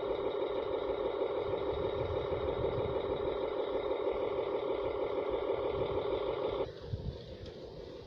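Handmade radio-controlled dump truck running with a steady whining hum that cuts off suddenly near the end.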